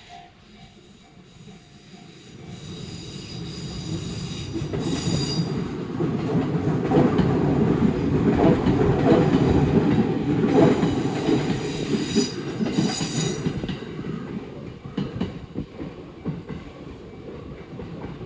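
A train passing over a level crossing: the crossing bell rings in even pulses at first, then the passing train's rumble and wheel clatter swell, peak for several seconds and fade away. Brief high wheel squeals come twice, about five seconds in and again near twelve seconds.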